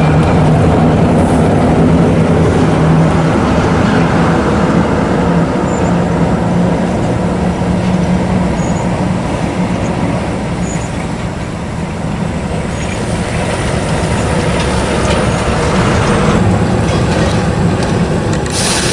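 Heavy diesel truck engine running steadily with loud road and rolling noise, its low engine note rising slightly partway through. A short, sharp hiss of air comes right at the end.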